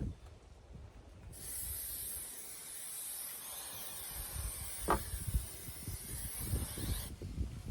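Aerosol can spraying in one continuous hiss for about six seconds, starting a second or so in and cutting off near the end. A single sharp knock about five seconds in.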